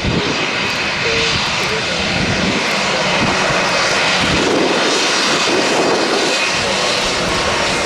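Jet aircraft engines running loud and steady, a dense rushing noise that swells a little midway.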